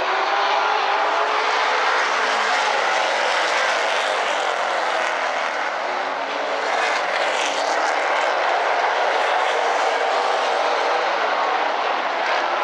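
A field of Super Late Model stock cars running at racing speed around a short oval, a steady, continuous roar of many V8 engines with their pitch shifting as cars pass through the turns.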